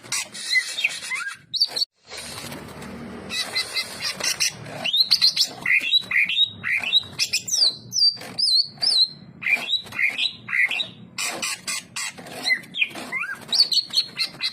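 Greater green leafbird (cucak ijo) singing: a fast, varied run of swooping whistles and chirps, over a steady hiss. The sound cuts out briefly about two seconds in.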